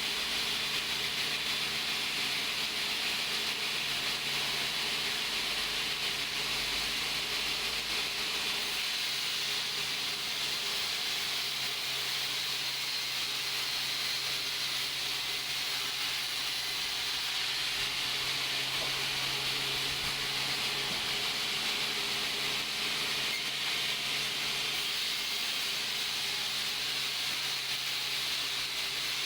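Sawmill machinery running: a steady, even hiss with a low hum underneath.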